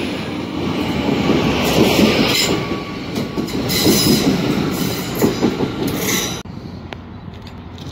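GWR Hitachi Intercity Express Train running past along the platform: a loud, steady rush of wheel and air noise with wheels clattering over rail joints. It falls away sharply about six and a half seconds in as the last coach passes.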